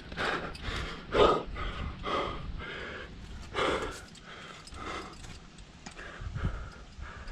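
A climber breathing hard under exertion, with loud, irregular breaths about a second apart over a low rumble.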